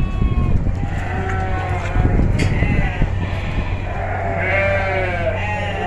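Several sheep bleating at a livestock market, overlapping quavering calls one after another, over a steady low hum.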